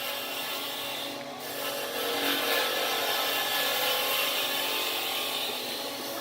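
Wood lathe running with a tool held against the spinning wood, a steady scraping rasp with a brief lull about a second in.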